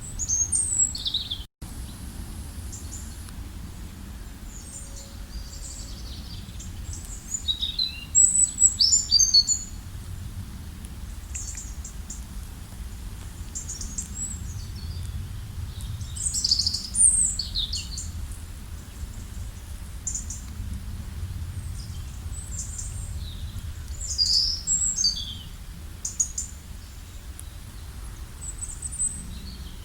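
Several songbirds chirping and singing in short, high phrases scattered throughout, over a steady low background rumble. The sound drops out completely for an instant about a second and a half in.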